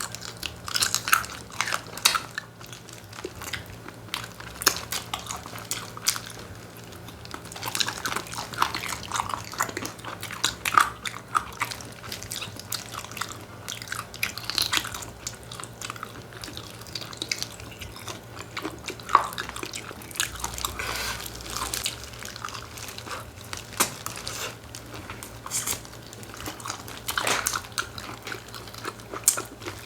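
Close-miked eating of chicken: irregular bites, crunches and wet chewing sounds, over a faint steady low hum.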